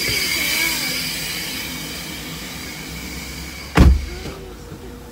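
Car power window motor whirring steadily, then stopping with one heavy thud about four seconds in.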